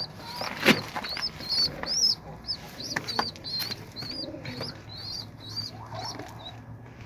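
A bird chirping over and over in short, high, rising-and-falling peeps, two or three a second, with a few sharp claps or knocks mixed in; the loudest comes just under a second in.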